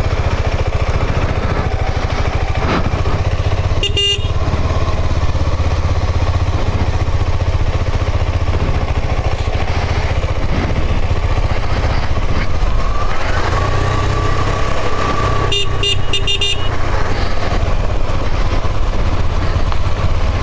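Motorcycle engine running steadily while riding. A horn beeps once about four seconds in, and a few quick times around sixteen seconds in.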